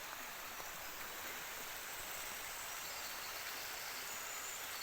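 Steady rush of running river water, with a few faint high bird chirps.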